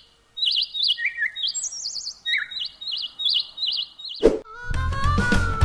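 Birds chirping: a run of short, quick warbling chirps repeated every half second or so. About four seconds in a sharp sound effect cuts in and upbeat music with a steady bass takes over.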